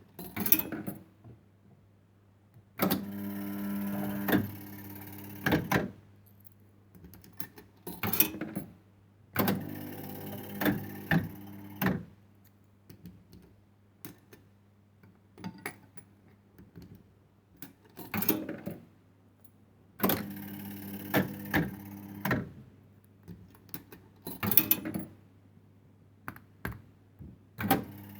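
A 1970s penny fruit machine being played: its reels run with a steady motor whine for two or three seconds at a time, three times, each run ending in sharp clunks as the reels stop. Shorter clattering bursts of clicks come in between, over a low steady mains hum from the machine.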